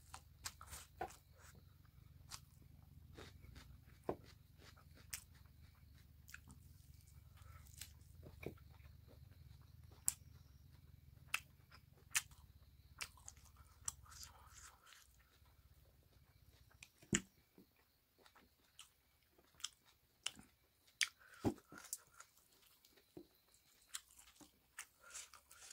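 Close-up eating sounds: a person chewing pork and rice, with wet mouth smacks and irregular sharp clicks. A low steady hum underneath stops about halfway through.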